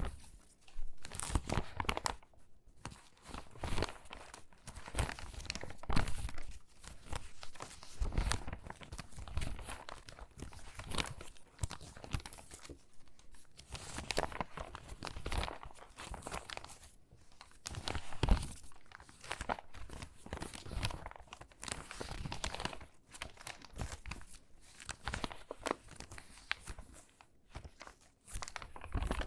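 Stiff, crinkly water-damaged magazine pages being handled and shuffled: irregular rustling and crackling of paper with short pauses between handfuls.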